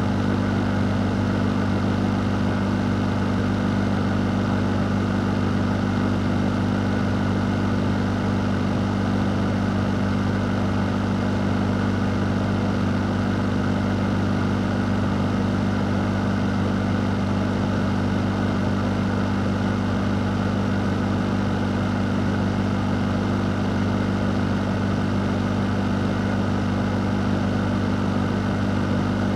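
A fan running steadily: a low, constant motor hum under an even rush of air, with no change in speed.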